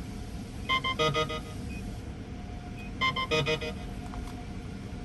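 Car wash payment kiosk beeping: two short runs of rapid electronic beeps about two seconds apart, over the steady low hum of an idling car.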